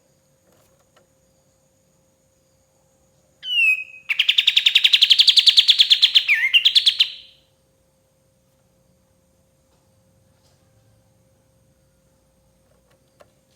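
Kapas tembak bulbul singing: a short falling call, then a fast chattering trill of many quick notes lasting about three seconds, ending in a quick downward-upward twist.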